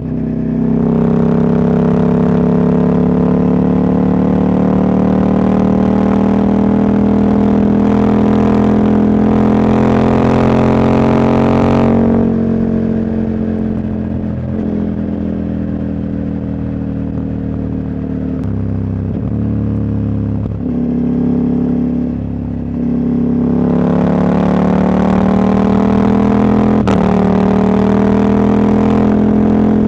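Husqvarna Norden 901's parallel-twin engine, its catalytic converter removed, pulling under throttle with revs slowly climbing for about twelve seconds. It then eases off to a quieter, steadier run with a few brief dips in pitch, and pulls hard again with climbing revs near the end.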